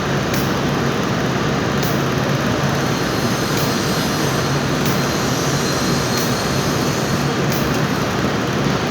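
A vehicle engine running steadily: a constant low hum with a wash of noise over it that does not rise or fall.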